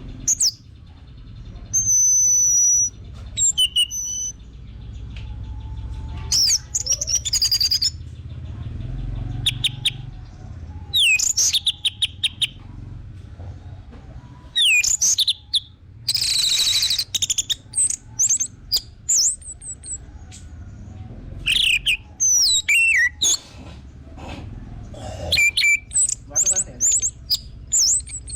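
Orange-headed thrush singing: a run of loud, sharp whistled phrases and rapid high notes, repeated in bursts with short pauses between them, the kind of vigorous song used to lure other thrushes into singing.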